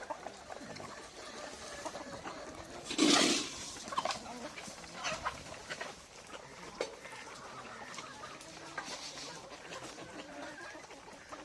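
Free-range desi chickens clucking in short, scattered calls, with one louder, brief burst about three seconds in.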